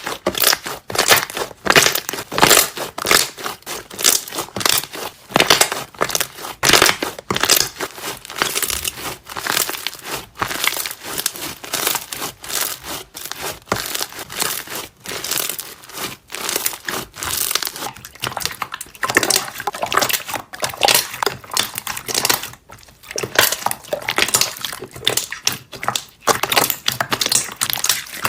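Slime being squeezed and kneaded by hand, with a continuous irregular crackle of small trapped air bubbles popping.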